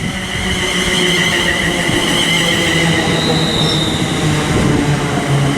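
Class 350 Desiro electric multiple unit arriving at the platform and slowing, with high steady squealing tones over the rumble of the train and a low hum that steps down in pitch as it slows.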